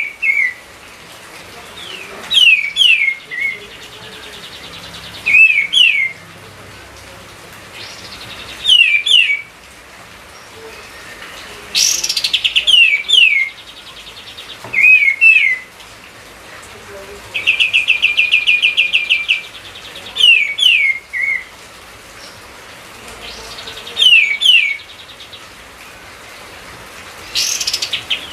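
Pied triller (kapas tembak) in full song. It repeats short phrases of quick, downward-sweeping whistled notes every few seconds, with now and then a rapid trill, the longest lasting about two seconds about two-thirds of the way through.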